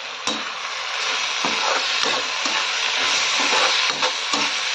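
Chopped vegetables frying in a metal kadhai: a steady sizzle, with a few sharp clicks and scrapes of the spatula against the pan as they are stirred.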